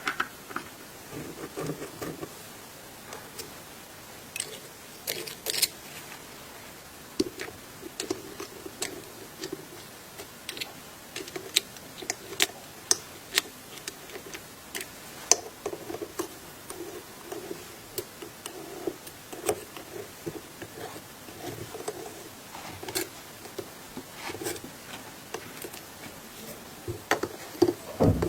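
Hands working on small tool parts at a bench: scattered light clicks and taps of hard parts, with soft rubbing and handling in between.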